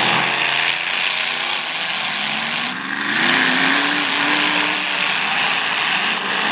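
Several demolition derby cars' engines running and revving at once, with a dense rough wash of exhaust noise. One engine climbs in pitch from about two seconds in, as if accelerating, then holds.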